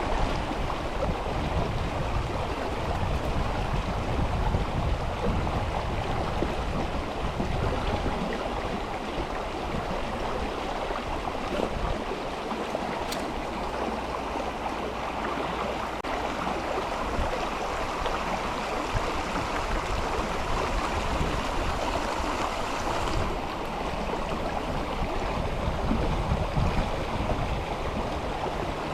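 Mountain river flowing steadily, an even rushing of water over stones, with a low rumble that swells in the first part and again near the end.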